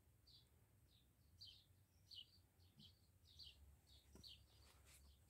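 Faint bird chirping outdoors: a short high call repeated about twice a second.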